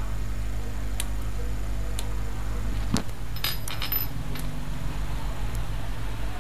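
Small metal clicks and a quick run of ringing metallic clinks about three and a half seconds in, from leads and connectors being handled while a bench power supply is hooked up to a laptop motherboard. A steady low hum runs underneath.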